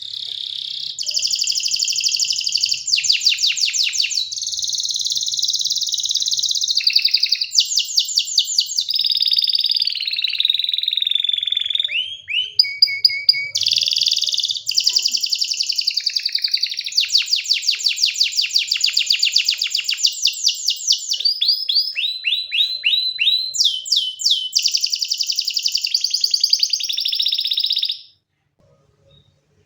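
Domestic canary singing a long, continuous song of rapid trills and rolls, moving from one trill to the next every second or two. The song stops shortly before the end.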